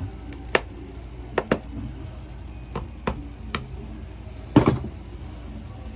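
Scattered sharp clicks and knocks of a screwdriver working Phillips screws out of a polisher's housing, the loudest a quick cluster of knocks about four and a half seconds in, over a low steady hum.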